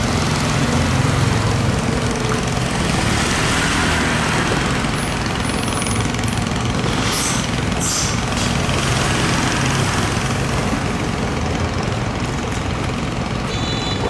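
A boat engine running steadily, with a brief hissing rush about halfway through and a short run of high pulsed tones starting near the end.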